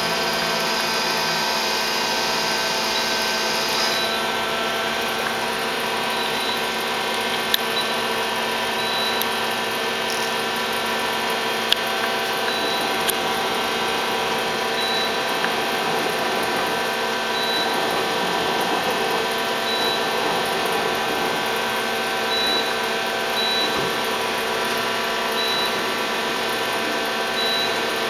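Okuma LU-15 CNC turning center running, a steady mechanical whine and hum made up of many steady tones. Two sharp clicks come about a third and halfway through, and faint short high beeps repeat every second or two.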